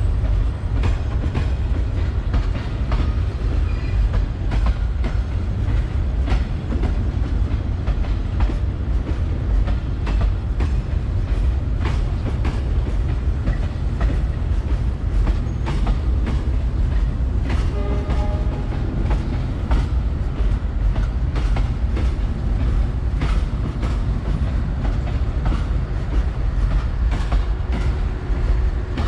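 Passenger coaches of the Vietnam Railways SE2 express rolling past as the train leaves the station. There is a steady heavy rumble, with wheels clicking irregularly over the rail joints.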